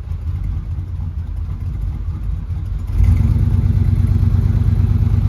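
Motorhome engine idling with a steady low rumble, getting louder about three seconds in.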